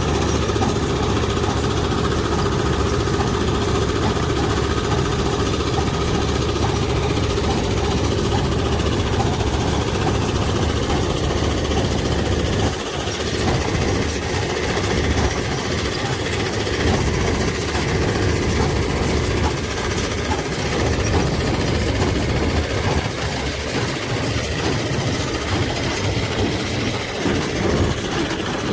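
Hay baler working, with a tractor engine running steadily under the noise of the baler's machinery.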